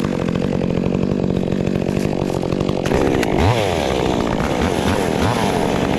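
Two-stroke chainsaw running at a steady speed, then from about three seconds in its engine revs rise and fall repeatedly as the throttle is worked.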